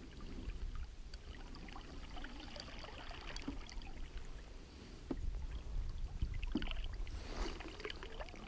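Water lapping and trickling against a small boat, with scattered small clicks. Low wind rumble on the microphone grows louder about five seconds in.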